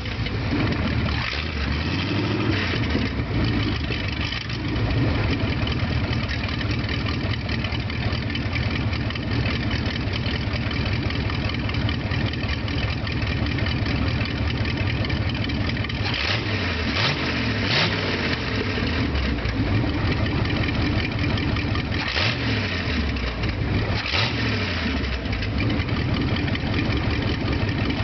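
International Harvester V345 V8 gasoline truck engine running on a test stand just after catching, idling and being revved up and down a few times. It runs steadily after having had stuck valves freed.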